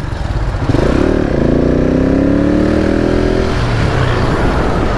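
KTM 690 single-cylinder motorcycle engine pulling away, its pitch rising slowly for about three seconds, then giving way to a steady rush of riding noise.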